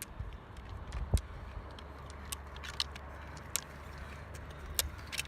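Scattered sharp clicks of rollerski pole tips striking the asphalt, irregular and several a second, with a loud one about a second in, over a steady low rumble.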